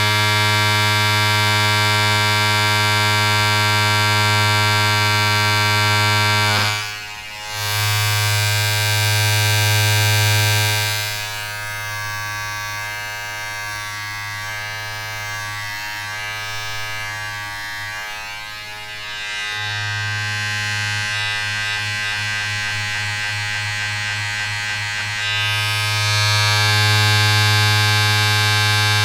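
A steady electric buzz with a strong low hum, dropping out briefly about seven seconds in and running quieter and rougher for several seconds in the middle before returning to full strength.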